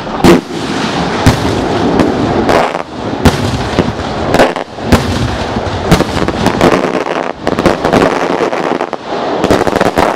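Fireworks barrage at close range: shells bursting overhead with loud sharp bangs, about one a second, over a continuous din from the display.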